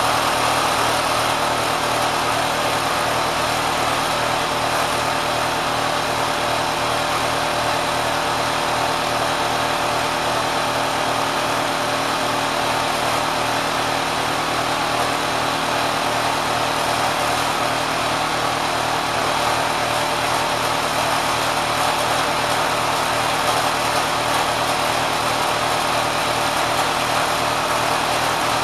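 Kenmore sewing machine driven by a swapped-in 3/4 hp electric motor, running steadily at high speed with a fast even mechanical rhythm.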